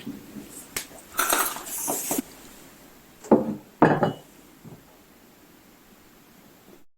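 Tableware being handled on a table: clinks of dishes and cutlery, a short scraping rustle about a second in, and two sharp knocks of a cup or dish being set down about three and four seconds in.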